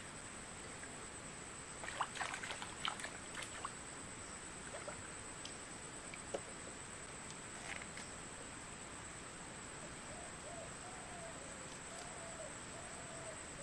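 A series of short, wavering owl hoots begins about ten seconds in and carries on, over a steady high-pitched whine. A cluster of sharp clicks and knocks comes a couple of seconds in.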